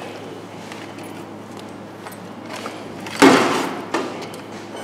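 A loud thud about three seconds in that dies away over about half a second, followed by a smaller sharp knock.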